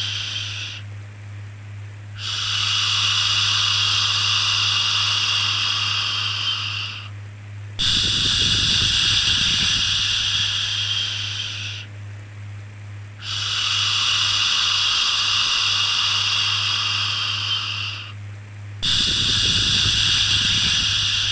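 Long, drawn-out "shhh" shushing sounds for soothing a baby, each lasting about four to five seconds, with a short break of about a second between them, over a steady low hum.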